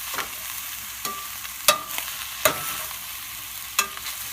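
Ground chicken and vegetables sizzling in a skillet on medium heat while being stir-fried: a steady sizzle broken by a utensil clacking and scraping against the pan about five times.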